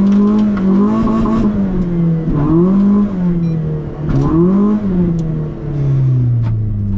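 Renault Clio RS rally car's engine revving hard: the pitch climbs, drops back and climbs again three times as the driver accelerates and lifts, then falls steadily near the end.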